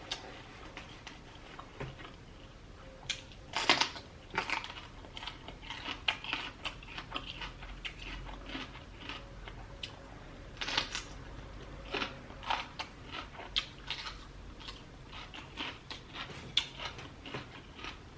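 Close-miked eating: a person chewing and biting lobster tail meat, with irregular short mouth and bite sounds and a few louder ones near four seconds in and near eleven seconds in.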